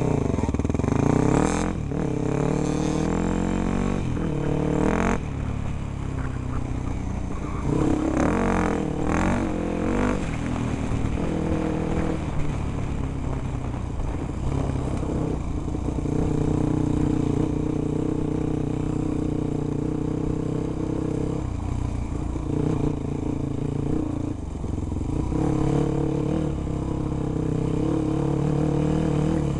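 Enduro dirt bike engine heard from on board, revving up and down over rough ground and then running at a steadier speed from about halfway, with sharp knocks and clatter from the bumps in the first ten seconds.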